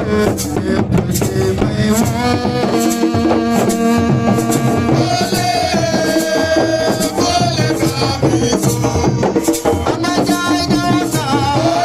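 Live band music with hand drums and percussion keeping a dense beat under held melodic notes.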